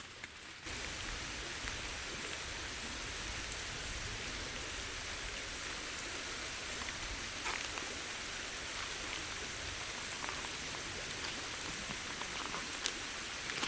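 Steady rain falling in tropical rainforest, with scattered single drops ticking louder now and then; it turns suddenly louder under a second in.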